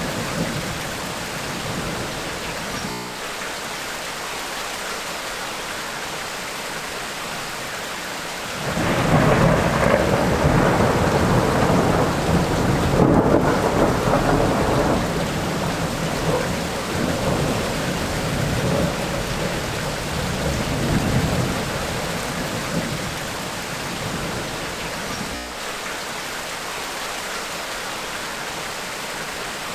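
Tropical rainstorm: steady heavy rain, with a long rolling rumble of thunder that swells up about a third of the way in and slowly dies away.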